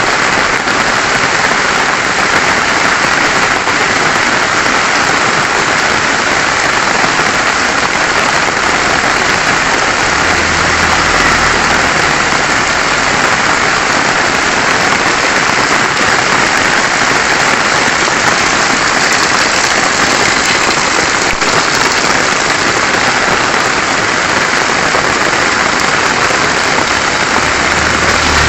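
Heavy rain falling steadily, an even loud hiss. A faint low hum comes in briefly about a third of the way in.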